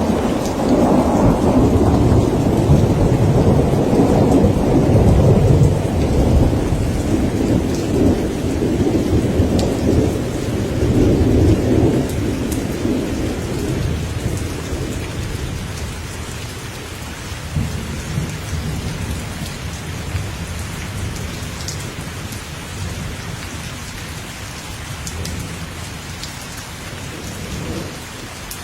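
Thunderstorm: steady rain falling, with a long rolling rumble of thunder that is loud for the first dozen seconds and then dies away under the rain.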